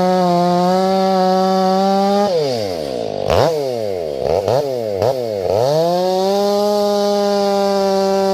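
Ported Stihl 500i fuel-injected two-stroke chainsaw running at full throttle. A little over two seconds in the engine drops to idle and is blipped up a few times, then it climbs back to full throttle about six seconds in and holds there.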